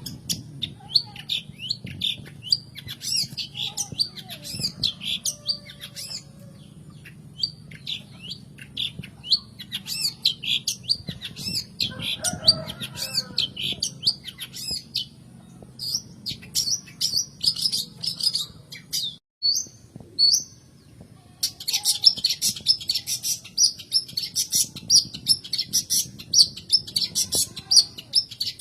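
Long-tailed shrike (cendet) giving rapid, repeated sharp chattering calls. There is a short break about two-thirds of the way through, after which the calls come faster and denser.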